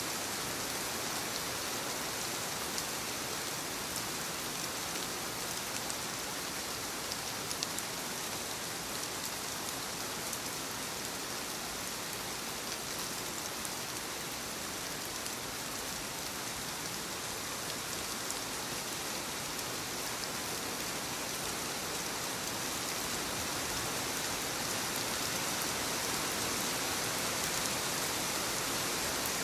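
Light rain falling on leaves: a steady hiss with scattered drop ticks.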